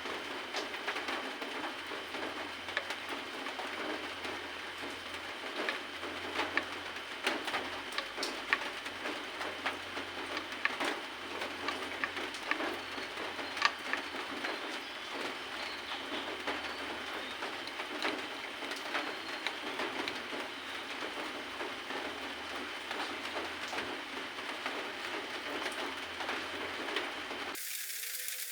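Irregular light clicks and small rattles of hand work on a motorcycle switch and its wiring, over a steady hiss with a faint high steady tone. The sound changes abruptly about a second before the end.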